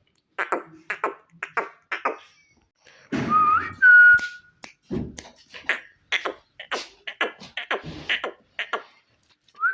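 Green ringneck parrot chattering in a run of short, sharp clicks and chirps, with one whistled note about three seconds in that rises and then holds steady.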